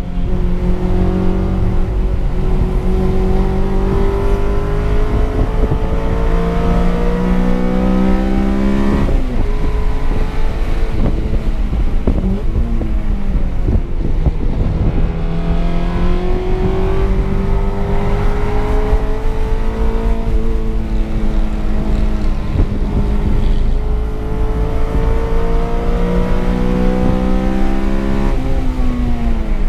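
Honda K20 four-cylinder engine of a 2009 Civic Si heard from inside the cabin, pulling hard on track. Its pitch climbs steadily, drops sharply about nine seconds in, then climbs again through two more long pulls with a small dip between them and another sharp drop near the end.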